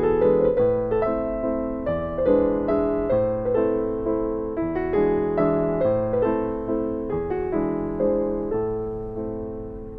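Background music: piano playing a repeated pattern of chords, each struck and left to fade.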